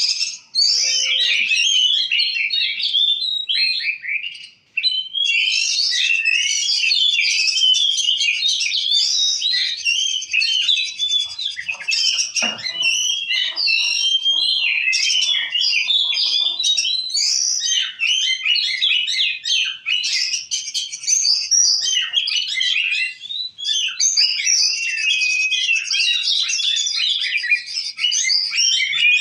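Oriental magpie-robin (kacer) singing a continuous, varied song of quick whistles, chirps and trills, with one brief pause about four and a half seconds in.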